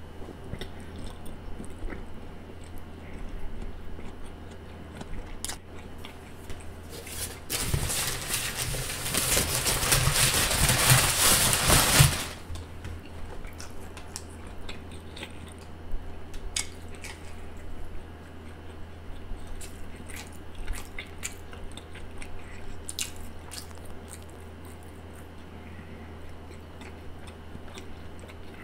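Close-miked chewing of a Subway sandwich, with small wet mouth clicks. About seven seconds in, a loud crinkling rustle of the paper sandwich wrapper lasts about four and a half seconds, then the chewing goes on.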